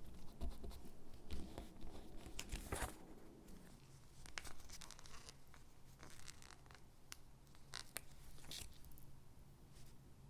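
Stickers peeled from their backing sheet and handled over paper: soft peeling and paper rustling with small ticks, busiest in the first three seconds.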